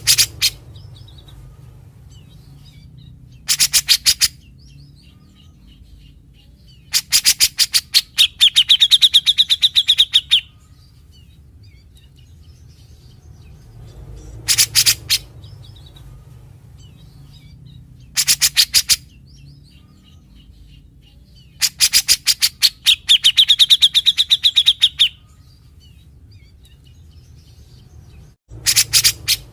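Cucak jenggot (brown-cheeked bulbul) singing its characteristic rapid rattling 'besetan' phrases in repeated bursts, two of the longer ones ending in a buzzy held note. A low steady hum runs underneath.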